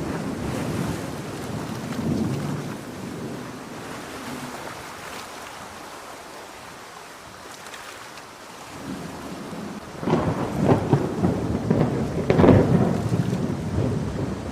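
Thunderstorm with steady rain. A low thunder rumble fades over the first few seconds, then a new peal builds from about nine seconds into a loud crackling, rolling thunder near the end.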